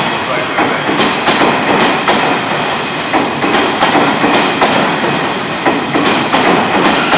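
Kintetsu 12200 series limited express electric train pulling into the station, its wheels clacking repeatedly over rail joints and points under a steady rumble.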